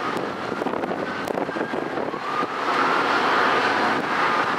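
Commuter train rolling past, a steady rumble and clatter of wheels on rails, with a faint tone that rises slightly and gets louder about halfway through.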